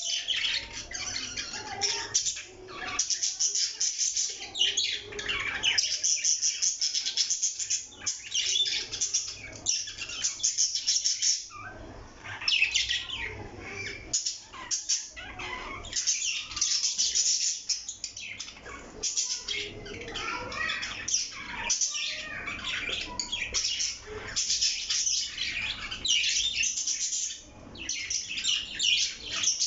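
Parrots chirping and squawking, with many short high calls overlapping in a dense, continuous chatter and only brief lulls.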